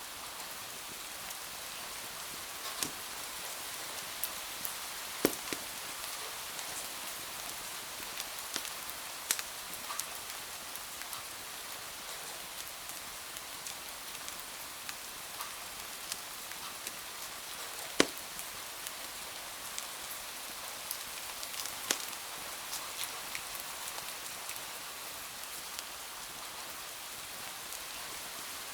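Steady rain hiss with scattered sharp crackles and pops of a wood fire in a fireplace, one crackle much louder about eighteen seconds in.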